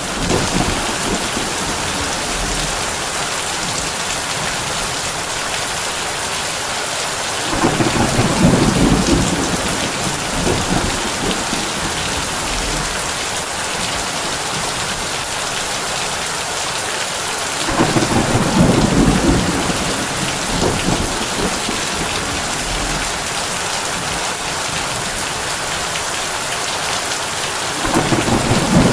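Heavy rain drumming steadily on a tin roof, with three low rolls of thunder about ten seconds apart, about eight seconds in, about eighteen seconds in and near the end.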